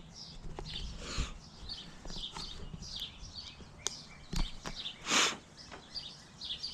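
Birds chirping, with many short, quick, falling notes, over a few sharp clicks. A brief rushing hiss comes about five seconds in.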